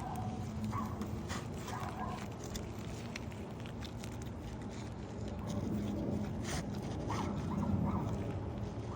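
Scattered clicks, taps and scrapes of hand work on asphalt roof shingles during a shingle replacement.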